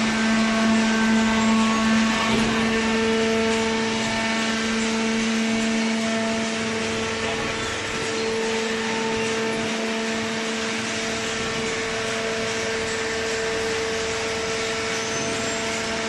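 Hydraulic carton box baler running: its electric motor and hydraulic pump give a steady hum.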